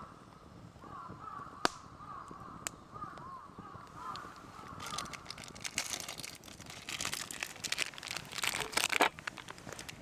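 Crows cawing repeatedly for the first few seconds. From about halfway through, a dense crackling, crinkling sound builds and grows louder.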